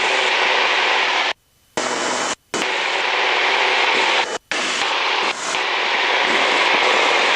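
Small aircraft in flight, its engine and airflow heard as a steady, loud hiss through the radio/intercom feed. The hiss cuts out abruptly several times, about a second and a half in for nearly half a second, and briefly again around two and a half and four and a half seconds.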